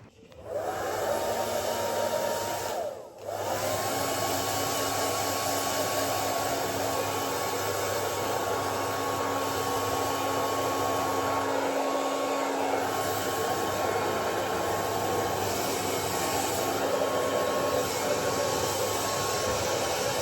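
Hair dryer blowing, drying a dog after her bath: it starts up with a rising motor whine, cuts out briefly about three seconds in, then comes back on and runs steadily.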